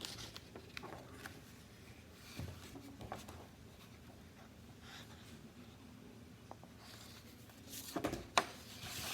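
Faint rustling and handling of paper book pages, with scattered light clicks and a louder rustle about eight seconds in.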